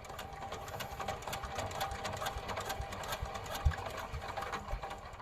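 Power tiller engine running with a rapid mechanical clatter, and a sharper knock a little past halfway.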